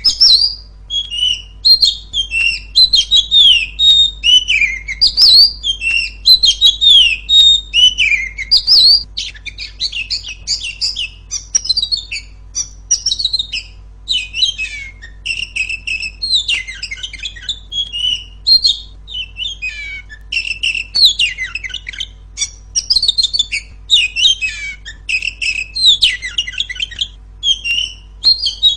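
Female Oriental magpie-robin singing loudly without pause, a fast run of clear whistled notes, many sliding downward. About a third of the way in, the song turns into busier, choppier chattering phrases.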